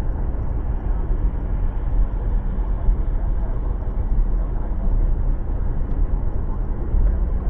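Steady low rumble of a car driving: engine and tyre road noise.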